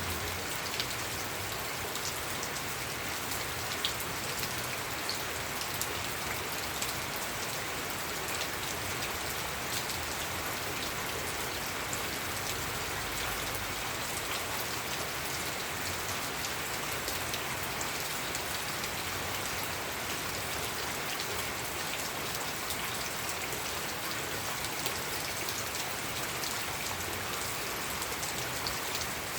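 Steady rain falling on a surface, an even hiss with many small drop ticks and an occasional louder single drop.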